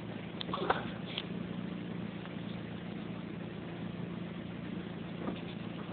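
A steady low engine hum, like a vehicle idling, with a few faint clicks about half a second to a second in.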